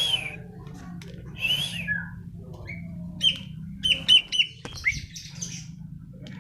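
A pet bird calling in short chirps, with a quick cluster of calls around the middle, over a steady low hum.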